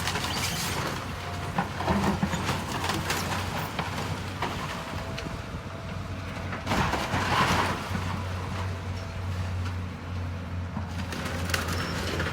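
Heavy demolition machine working on a building: its engine runs steadily underneath while it crunches through the structure, with louder crashes of breaking debris about two seconds in and again about seven seconds in.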